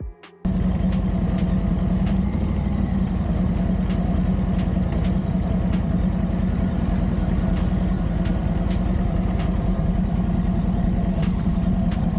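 Harley-Davidson Sport Glide's V-twin engine running steadily, cutting in abruptly about half a second in.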